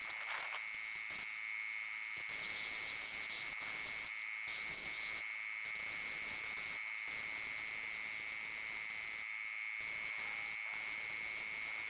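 Paint spray gun hissing as parts are spray-painted black, the hiss louder in stretches a few seconds in, over a steady high-pitched whine.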